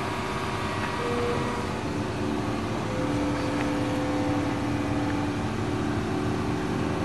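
Excavator's diesel engine running steadily, with a steady whine setting in after a second or two.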